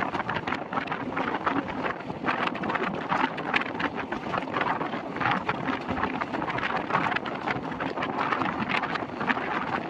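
Wind buffeting the microphone held out of the window of a moving passenger train, over the steady rumble and rapid clatter of the coach's wheels on the track.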